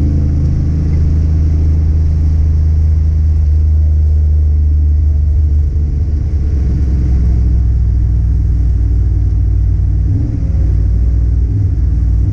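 Car engine running under way with a loud, steady low drone. Its pitch shifts a little about halfway through and again near the end.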